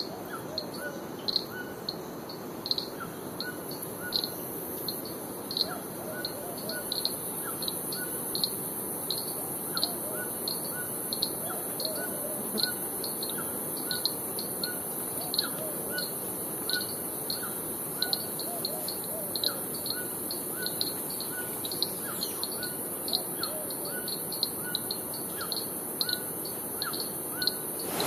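Birds calling in tropical forest: short, high chirps repeat about twice a second throughout, with fainter, lower chirps mixed in, over a steady background hiss.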